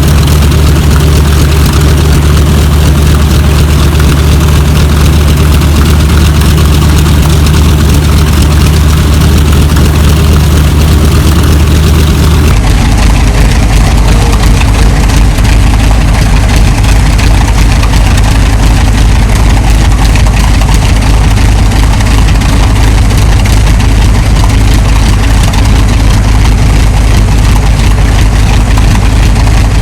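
TBM Avenger's Wright R-2600 fourteen-cylinder radial engine running steadily at a low, even speed. About twelve seconds in, the sound changes abruptly to a lower, deeper engine note that then holds steady.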